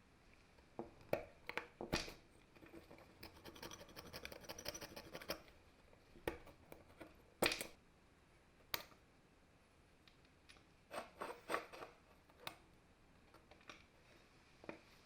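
Hand work on small metal drill parts: scattered sharp clicks and knocks, with a run of rapid fine scraping strokes lasting about two seconds, starting about three seconds in.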